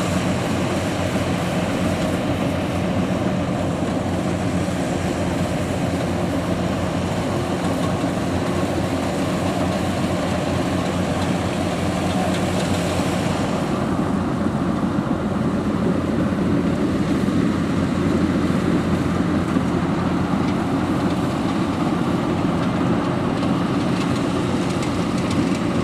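Yanmar YH700 rice combine harvester running steadily under a constant engine note. A brighter hiss above the engine drops away about halfway through.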